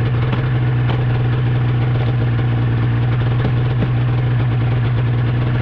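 Snowmobile engine running at a steady pitch, holding an even speed.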